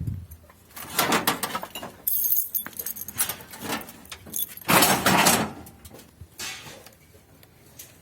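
Several short bouts of rattling and clattering, with the loudest about five seconds in.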